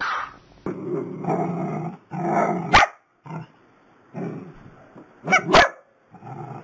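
Small dogs, dachshunds, barking and growling in a string of short bursts, with two sharp, loud barks, one near the middle and one toward the end.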